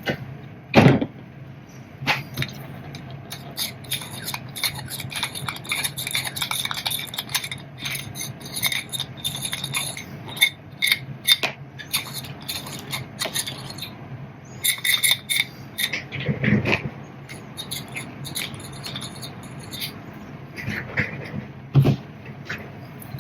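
Small metal parts clinking, clicking and rattling as they are handled, with three heavier knocks: one about a second in, one past the middle and one near the end.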